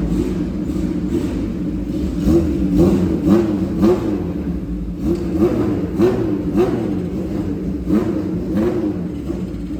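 Motorcycle engine idling and revving in quick repeated throttle blips, the pitch rising and falling several times in a row, in three bursts.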